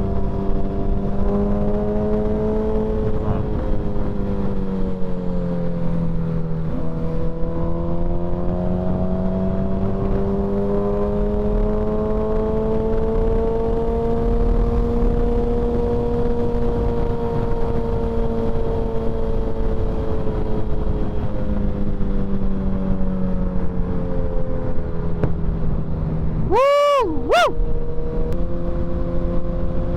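Suzuki sport bike's inline-four engine running at highway cruising speed, its pitch sinking a few seconds in, then climbing slowly and easing off again, with a brief sharp up-and-down whine a few seconds before the end.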